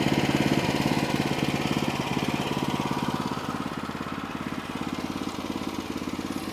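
Small gasoline engine of a portable sawmill running steadily at an even pitch.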